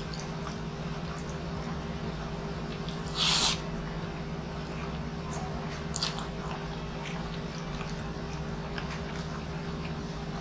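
Close-miked chewing and mouth sounds of a person eating rice and meat by hand, with small wet clicks, one louder, brief noise about three seconds in and a smaller one about six seconds in. A steady low hum runs underneath.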